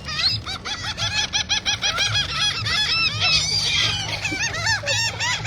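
A flock of seagulls calling, many short squawks that rise and fall in pitch, overlapping several to the second.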